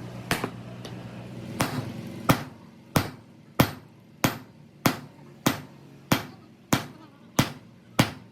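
Hammer blows on metal: a few scattered strikes, then a steady rhythm of sharp ringing blows, a bit more than one a second and a half. A steady hum runs under the first couple of seconds and then stops.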